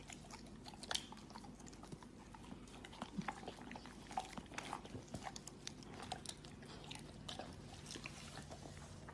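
A pet chewing and biting at something close to the microphone: irregular crunchy clicks, quiet, over a faint low hum.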